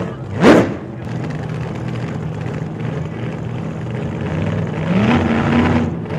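A vehicle engine running, revved sharply once about half a second in and again, more gently, near the end, where the pitch rises and then holds.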